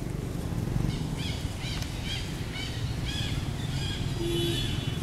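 A bird calling a series of short, arched, high notes, about two a second, over a steady low rumble.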